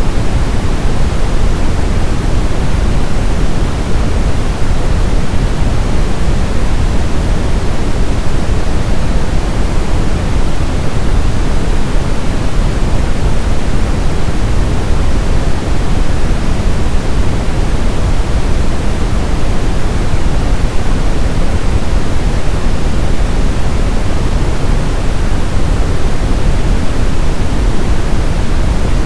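Brown noise: a steady, even hiss weighted toward the deep end, with no tones or changes.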